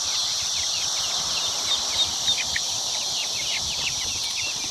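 Many birds chirping at once: a dense, continuous chatter of short, quick, downward-sliding chirps.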